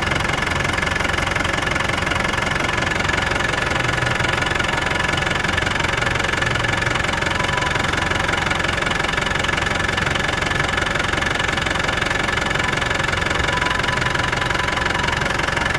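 Engine idling steadily a little while after a cold start, with no change in speed.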